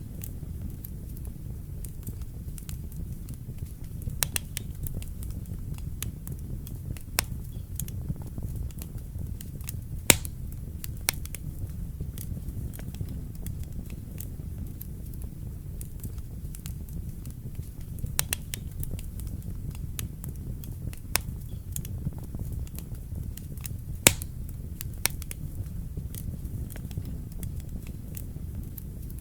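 Wood fire burning in a fireplace: a steady low rumble of flames with scattered sharp crackles and pops, two of them louder, about ten seconds in and again about twenty-four seconds in.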